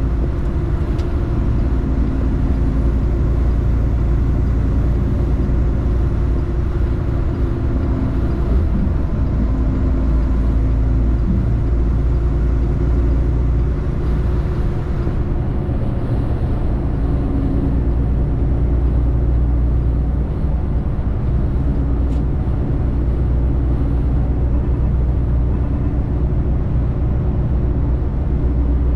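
A semi truck's diesel engine running under way, with road noise: a steady low drone.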